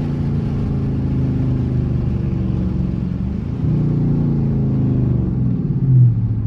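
Dodge Charger R/T's V8 engine and exhaust running under way, a steady drone that steps up in loudness about halfway through as more throttle is given, with a short louder swell near the end.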